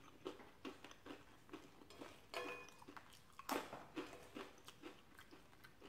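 Quiet close-up chewing and wet mouth sounds of a person eating chili, with a string of faint clicks. Near the middle there are two louder clinks, one briefly ringing, as a spoon knocks against the ceramic bowl.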